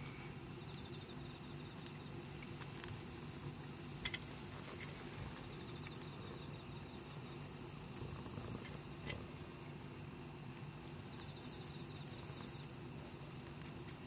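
Insects calling in repeated trills of a second or two each, over a high steady insect buzz that stops about six seconds in, with a few sharp pops from the wood fire.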